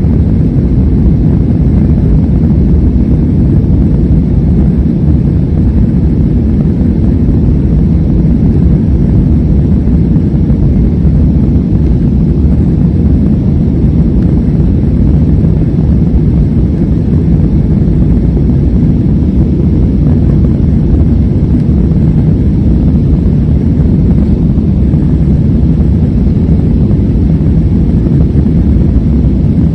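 Airbus A320 jet engines and airflow heard as a steady, loud, low rumble with no change in pitch, the sound of the airliner in flight after takeoff.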